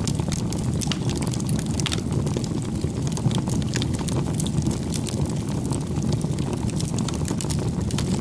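Wood fire burning, with a steady low rumble and frequent scattered crackles and pops.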